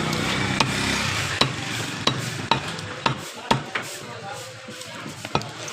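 Blade chopping chicken on a cutting block: a series of sharp, irregular knocks, roughly two a second, over steady background noise.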